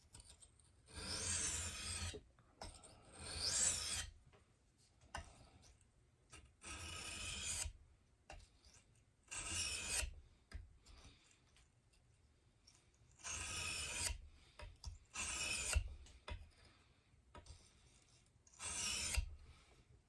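Knife blade drawn across a wet, coarse sharpening stone: seven separate rasping strokes of about a second each, with pauses between. It is the coarse-stone stage, with the edge nearly sharp.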